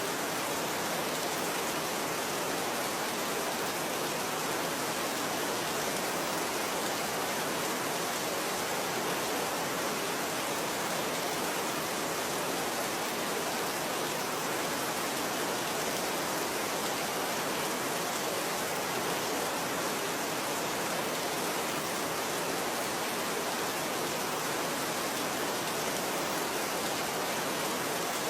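Steady rain falling, an even hiss of drops with no changes or single strikes standing out.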